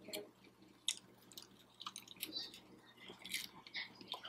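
A person chewing a fried cheeseburger egg roll close to the microphone: irregular wet clicks and smacks of the mouth.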